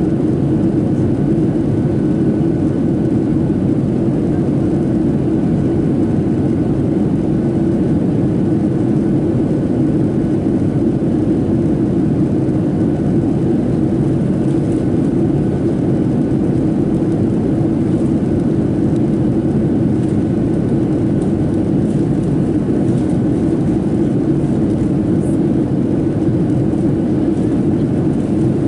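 Steady cabin roar inside a Boeing 737-700 in flight, the sound of its CFM56-7B engines and the airflow over the fuselage, even and unchanging, with a faint thin whine above it.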